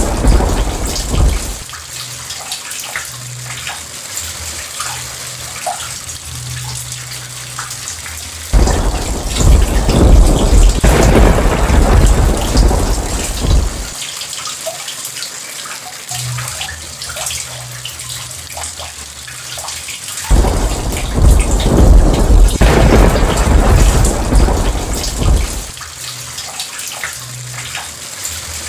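Steady heavy rain with dripping, broken by three long rolls of thunder. The first roll fades out just after the start, the next begins about eight seconds in, and the last about twenty seconds in; the second and third each run for about five seconds.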